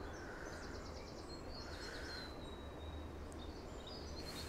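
Small songbirds chirping, with a quick trill about half a second in and more chirps later, over a steady low background hum.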